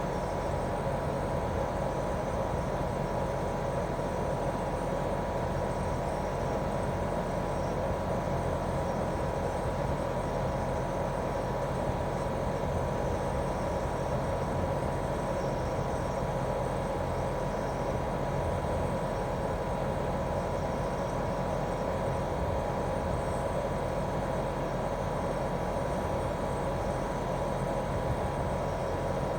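Daikin R28RMV mini-split outdoor unit running steadily in heating mode: its twin swing (rotary) inverter compressor and fan make an even hum with a constant tone.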